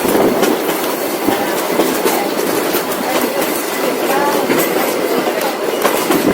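Heritage steam train's carriages running along the track: a steady rumble with faint repeated clicks of the wheels over the rail joints.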